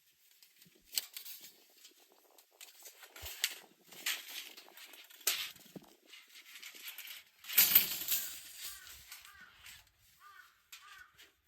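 Metal plates and parts of a fire pit being handled and fitted together: scattered clicks, clinks and scrapes with short pauses, the loudest clatter about two-thirds of the way through.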